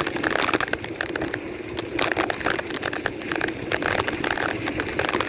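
Bicycle riding over rough ground: a steady rumble with many crackling clicks.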